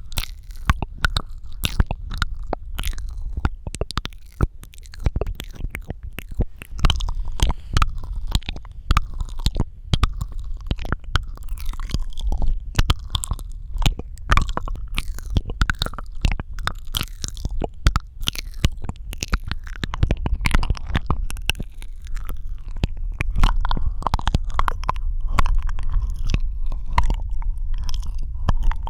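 Close-miked ASMR mouth sounds: rapid wet clicks, pops and smacks of lips and tongue, packed densely and without pause, over a low rumble.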